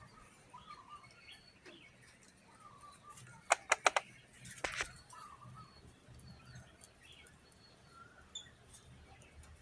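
1997 Lucky Misu 48-inch ceiling fan running with a faint low hum under scattered small high chirps. A quick run of four sharp clicks about three and a half seconds in is the loudest sound, followed by a short rasp.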